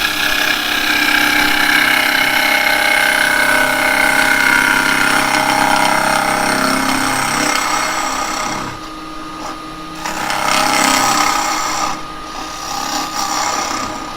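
Carbide turning tool cutting wet cherry wood on a spinning lathe, over the steady whine of the lathe. The cut breaks off briefly a little past halfway and again near the end, then resumes.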